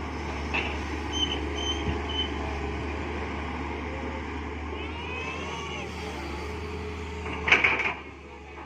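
Excavator's diesel engine running steadily, with three short high-pitched tones a little over a second in and a sudden loud burst of noise about seven and a half seconds in.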